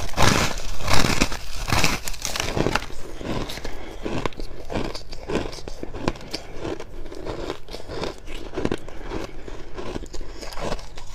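Close-miked dry crunching and chewing of fluffy freezer frost. The crunches are loudest and densest in the first few seconds, then settle into a steady run of smaller crunches.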